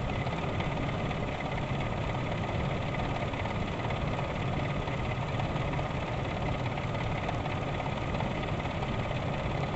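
1999 Ford Expedition's V8 idling steadily during a vacuum test for engine misses, its vacuum reading a fairly steady 18 to 19 inches of mercury.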